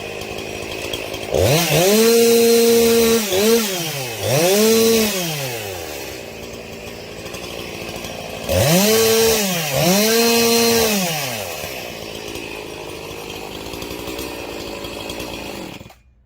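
Two-stroke chainsaw idling, revved up twice, about 1.5 s in and about 8.5 s in. Each time it goes up as two quick revs in a row that hold briefly and fall back to idle. The sound cuts off abruptly near the end.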